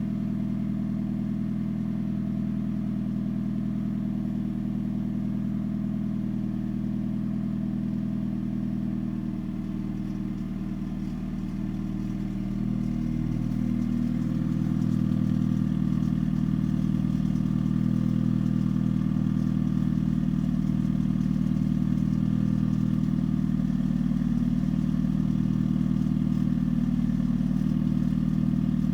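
2013 Hyundai Genesis Coupe 2.0 turbocharged four-cylinder engine running with a rattle. The owner suspects the engine, its mounts, or an exhaust hanging too low. A little past halfway it gets louder and its note shifts, then holds steady.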